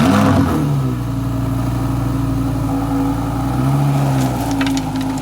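A high-performance car engine revs up sharply and then holds a loud, steady note at high revs. A few short clicks come near the end.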